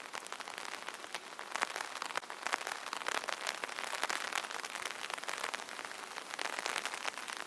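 Rain pattering on an open umbrella: a dense, steady patter of many small drop impacts on the fabric canopy.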